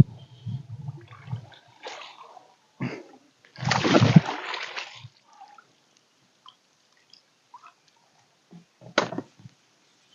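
Water splashing as a hooked chub is brought in, with one loud splash about four seconds in and a sharp knock near the end.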